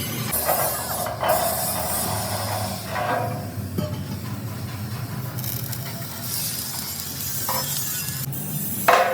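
Metalworking shop noise from trailer-body fabrication: hissing and mechanical clatter that start and stop in patches of a second or two over a steady low hum.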